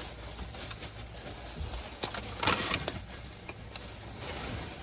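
Items being handled: a few short crinkles and clicks of plastic packaging, with a cluster of crackling about two and a half seconds in.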